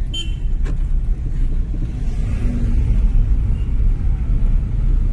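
Car driving along the road: a steady low rumble of engine and road noise.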